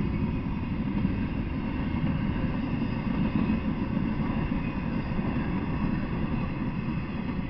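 Intermodal freight train rolling past, its flatcars carrying truck trailers, with a steady low rumble of wheels on the rails.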